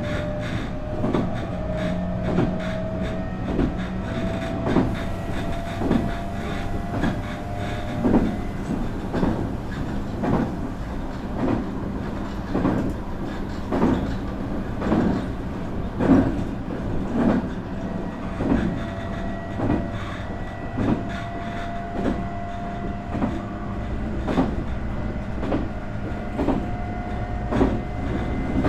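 Nankai 8300 series EMU running on the line, heard from inside the car, with wheels clicking over rail joints about once a second. Over this the whine of its IGBT VVVF inverter and totally enclosed Toyo Denki induction motors rises slowly in pitch at the start, fades out about 8 s in, and comes back in the second half.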